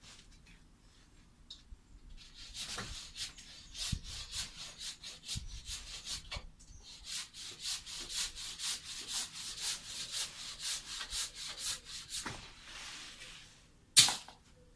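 Hand saw cutting through wood in quick back-and-forth strokes, about four a second, with a short pause partway through. A single sharp knock near the end.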